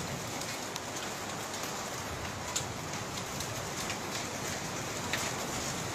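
Steady rain pattering, with scattered individual drops ticking sharply.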